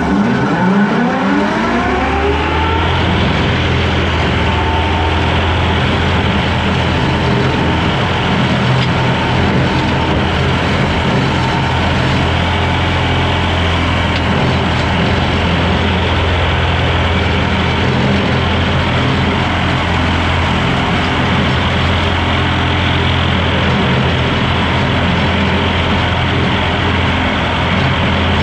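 Skid steer running a brush hog attachment: the engine and mower rise in pitch over the first two or three seconds as they throttle up, then run steadily at high speed.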